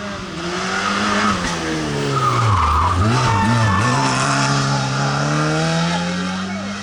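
Rally car engine: revs drop and wobble as it brakes and shifts down for a corner about halfway through, then climb steadily as it accelerates away, with tyre noise over it.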